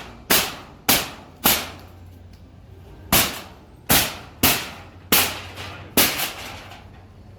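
Heavy hammer blows during demolition work: about nine sharp, ringing strikes. The first three come in quick succession, then after a pause of about a second and a half another six follow, roughly one every half second to second.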